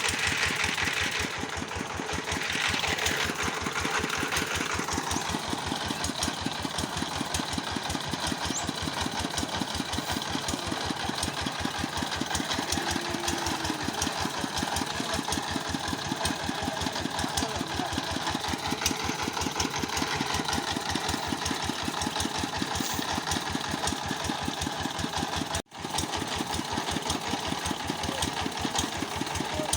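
Engine of a home-built mobile circular sawmill running steadily with an even, rapid firing beat. It drops out for a split second about three-quarters of the way through.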